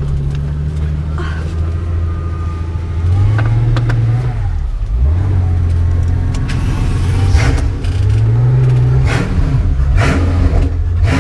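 Pagani Huayra's twin-turbo V12 running at low revs, heard from inside the cabin, its pitch rising and falling gently a few times. Several sharp clicks in the second half.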